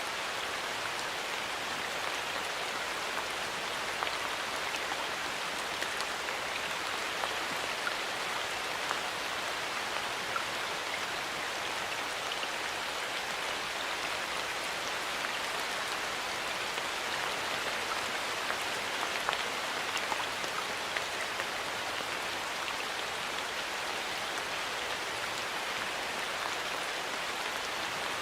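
Steady rain falling in a forest, an even hiss with scattered individual drops ticking.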